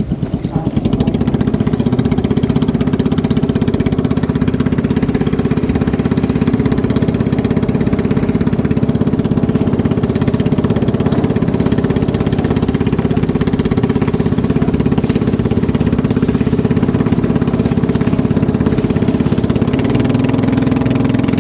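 Boat engine running steadily at close range, a constant even drone with no change in speed.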